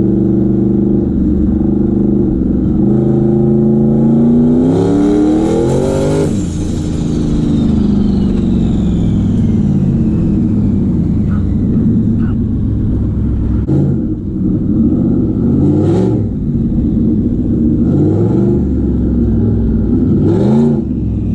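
Big-single-turbo S550 Ford Mustang driving, with one hard acceleration about five seconds in as the engine note climbs, then a high turbo whistle that falls away over several seconds after the throttle lifts. Short hisses come three times later while the engine runs on at light throttle.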